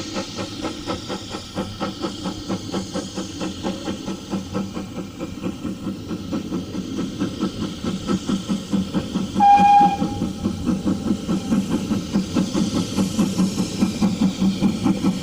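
Heritage steam train running with a steady rhythmic beat, with one short, loud whistle toot about nine and a half seconds in.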